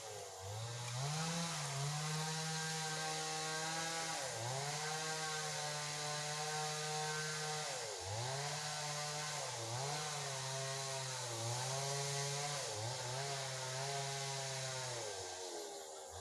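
Small high-revving engine, like a chainsaw or brush cutter, running steadily. Its pitch drops briefly and climbs back about five times, as if the throttle is eased and opened again.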